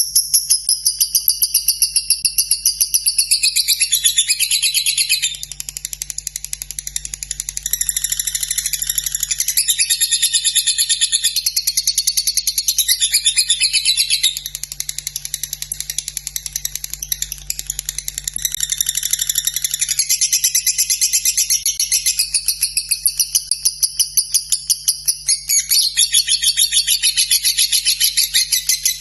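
Lovebird giving a long, unbroken trill ('ngekek'), a rapid high chattering run of notes that goes on without a pause. It eases off a little a few times before building back up.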